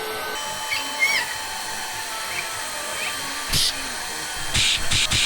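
Electric air pump running steadily as it inflates a giant balloon, with a few short hissing bursts near the end.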